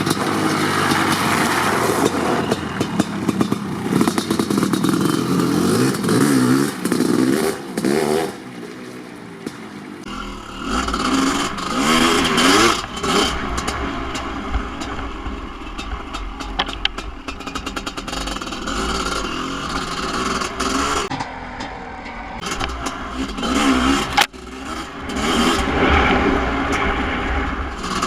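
Kawasaki KX500's big 500cc single-cylinder two-stroke engine, breathing through an FMF Gnarly expansion pipe, running and revving up and down again and again, with dips back toward idle between revs. A steady low rumble joins about ten seconds in.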